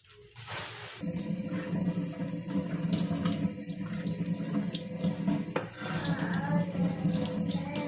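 Water running from a tap into a sink, starting about a second in, with light clinks over it.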